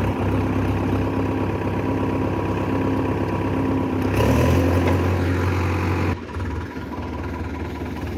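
Tractor engine running steadily at idle, growing louder from about four seconds in, then dropping back abruptly about two seconds later.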